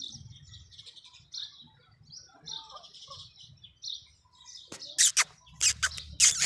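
Birds chirping in quick, short, high notes, then a run of five or six loud, sharp knocks in the last two seconds.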